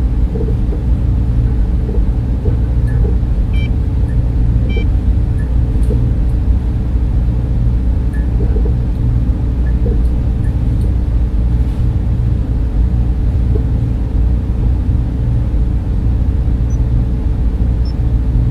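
Data center ambience: a steady low rumble and hum of server and cooling fans, with a few faint short ticks and soft beeps over it.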